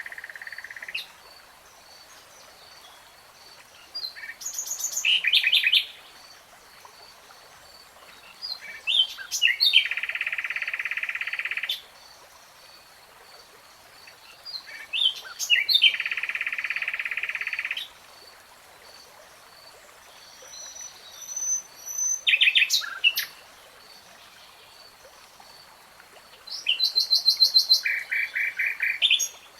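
A nightingale singing in separate phrases about every six seconds. Each phrase is a few quick notes leading into a long buzzing trill or a run of rapid repeated notes. A faint high ticking runs steadily in the background.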